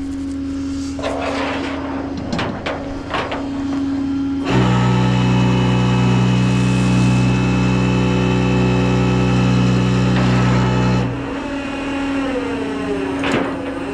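Tow truck's hydraulic towing gear at work. A few clanks of metal tow equipment, then a loud steady pump drone for about six seconds that cuts off abruptly, and a single knock near the end, while the truck's engine runs underneath.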